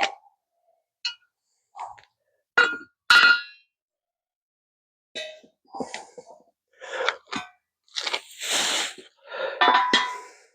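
Metal tools and parts clanking and clinking as they are handled: a handful of separate strikes with short ringing, then a busier run of clanks near the end with a longer scraping rush of noise among them.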